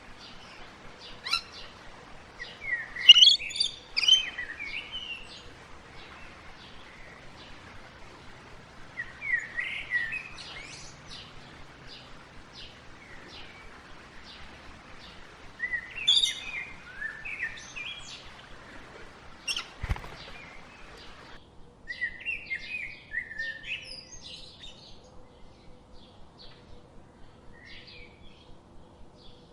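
Small birds chirping and singing in short, repeated bursts, with quick high ticks between phrases. One sharp knock about two-thirds through.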